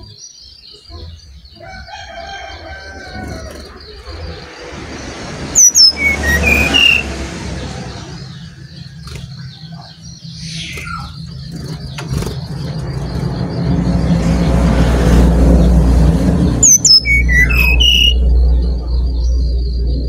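Brown-chested jungle flycatcher calling: two bursts of sharp, quick notes dropping in pitch, about eleven seconds apart. Under them are a steady high buzz and a low rumble of wind on the microphone that grows louder in the second half.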